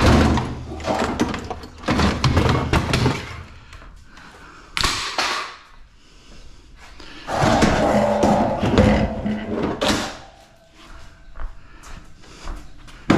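Knocks, bangs and rattling of scrap appliances and their tangled cords being handled and pulled apart, coming in several bursts with quieter gaps between.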